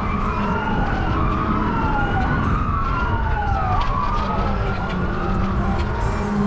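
Emergency vehicle siren sounding in repeated falling sweeps, one about every second and a half, over a steady low rumble. The siren fades out near the end.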